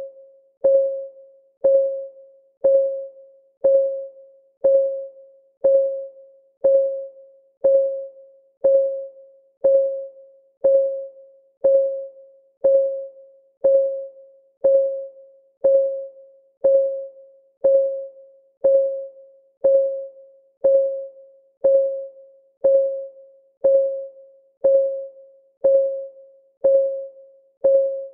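Timer's clock-ticking sound effect: a steady tick about once a second, each one a sharp click with a short ringing tone that dies away quickly.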